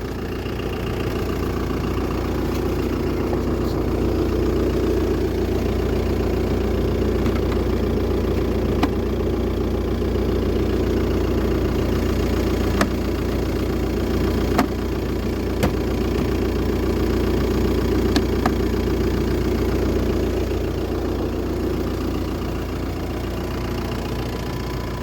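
Engine idling steadily, with a few sharp clicks over it.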